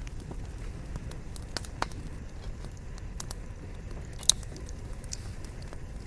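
Wood campfire burning with a steady low rush and scattered sharp crackles and pops from the logs, the loudest a single snap about four seconds in.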